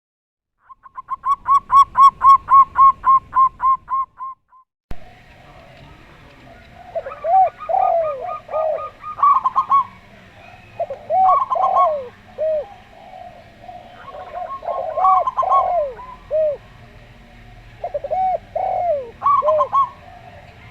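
A zebra dove gives a rapid, even run of high staccato coos. After a cut about five seconds in, a zebra dove and a spotted dove coo together: phrases of lower, arched coos mixed with higher rolling notes, repeating about every four seconds.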